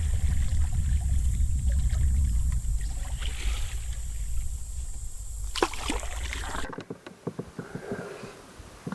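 Canoe being paddled, with a steady low rumble of wind buffeting the microphone. About two-thirds of the way in the rumble cuts off, and a few light knocks follow.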